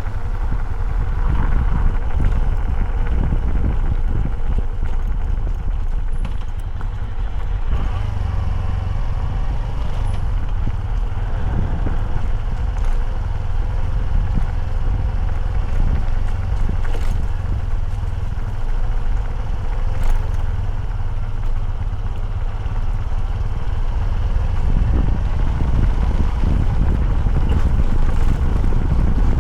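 Motorcycle being ridden along at a steady pace, a continuous low rumble with no let-up.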